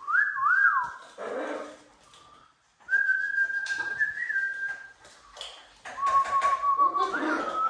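Whistling: a quick rising-and-falling whistle at the start, then two long held whistle notes, the second lower with a brief upward flick near the end. A short voice-like call comes about a second in.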